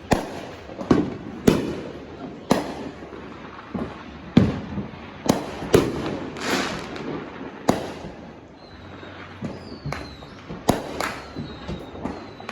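Fireworks and firecrackers going off: a dozen or so sharp bangs at irregular intervals, some followed by a hissing crackle, with a faint high falling whistle in the later part.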